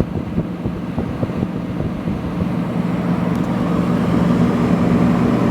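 Vintage Fedders window air conditioner running, its fan and compressor giving a steady hum that grows louder about three seconds in.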